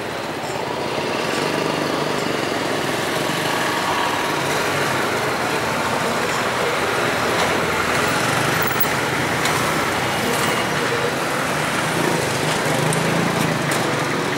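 ADtranz DE2000 diesel-electric locomotive running with its diesel engine under power as the train moves off, a steady engine sound with several held tones that grows louder over the first couple of seconds, with a few light clicks later on.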